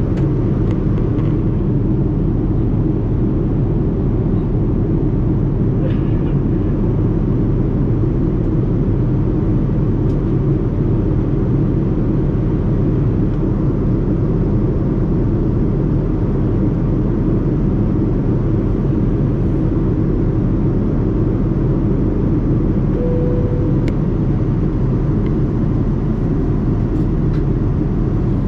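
Steady cabin noise of a Boeing 787-9 airliner in flight: an even, low rumble that holds without change.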